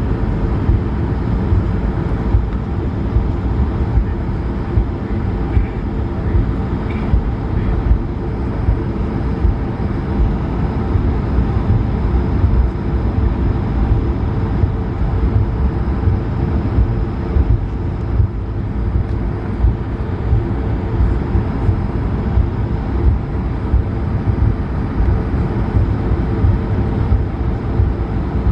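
Steady cabin noise inside an Airbus A220-300, its Pratt & Whitney PW1500G geared turbofan engines running with a deep, even rumble and a few steady tones.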